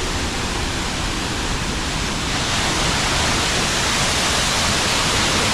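Panther Creek Falls crashing down close by, a steady, powerful roar of falling water.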